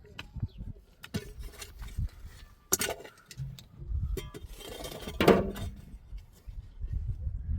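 Hard objects clinking and knocking against each other several times, with a longer, louder rattle about five seconds in.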